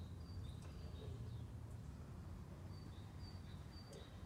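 A small bird chirping: two short runs of quick high notes, alternating between two close pitches, one early and one near the end, over a faint steady low rumble.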